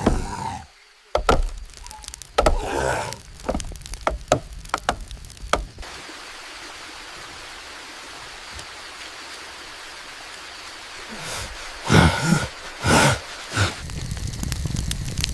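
Irregular sharp knocks and thwacks of tools striking wood for about six seconds, then a steady hiss for about five seconds, then a few heavy thuds near the end.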